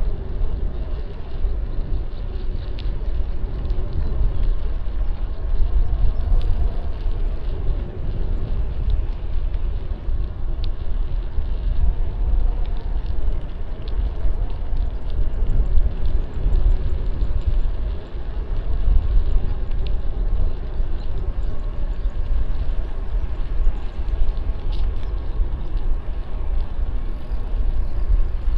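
City street traffic heard from a moving bicycle: a steady mix of passing vehicle engines and tyre noise over a heavy low rumble.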